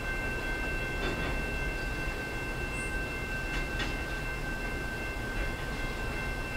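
Canadian National train crossing a steel rail bridge at a distance: a steady low rumble with a constant high-pitched ringing squeal over it, and a few faint clicks.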